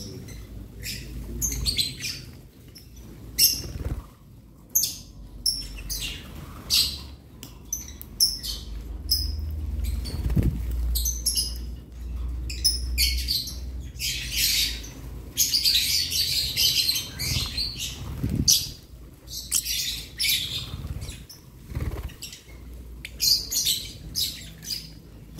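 Lovebirds chirping and chattering in an aviary: many short, high chirps, busiest and most continuous about halfway through.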